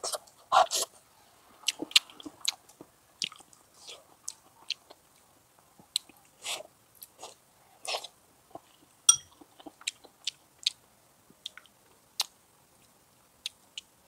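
Close-up eating sounds: a person chewing and biting hot pot food, with irregular wet smacks and sharp clicks a few times a second.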